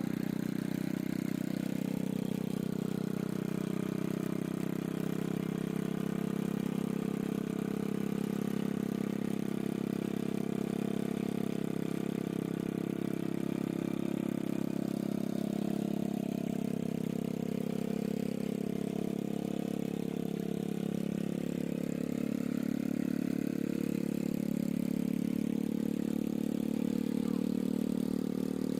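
Motorcycle engine running steadily at a low, even speed.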